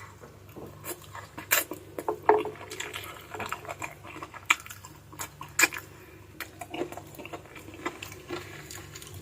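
Close-up eating sounds of chicken feet adobo being chewed and sucked: irregular clicks and smacks, with a few louder ones about a second and a half in, a little after two seconds and near six seconds.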